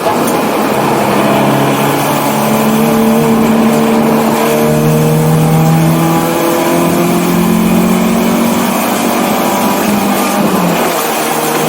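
1984 BMW 318i race car's four-cylinder engine pulling hard under load, its pitch climbing slowly for about ten seconds, then dropping sharply near the end before it pulls again.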